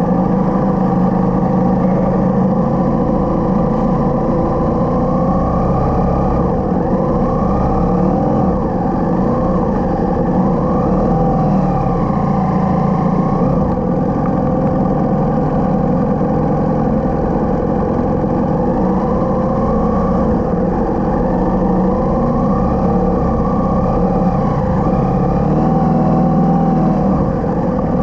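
Motorcycle engine running while riding, its pitch rising and falling gently with the throttle.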